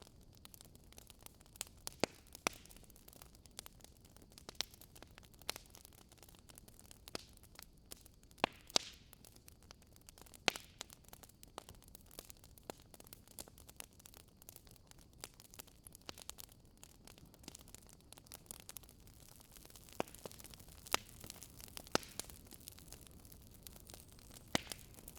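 Wood fire burning in a fireplace: irregular sharp crackles and pops, a few louder snaps, over a soft steady hiss.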